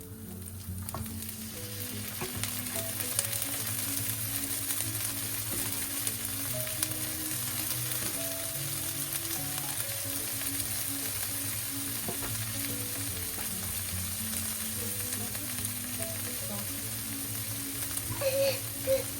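Food frying in a hot pan with a steady sizzle that builds up over the first couple of seconds, over soft background music.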